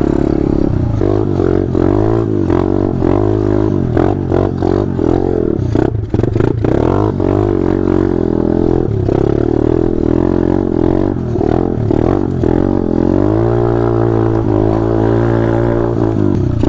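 Small single-cylinder four-stroke off-road bike engine revving up and down over and over, its pitch rising and falling with the throttle, with a short drop about six seconds in and a steadier stretch near the end.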